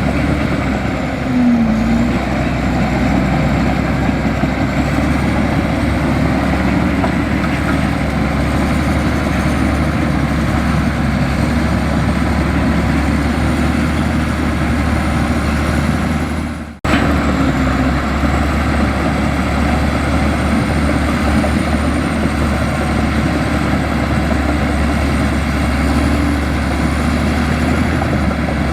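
Heavy diesel engine of earthmoving machinery running steadily under work, with a faint wavering high whine over it. The sound breaks off for an instant about two-thirds of the way through, then carries on.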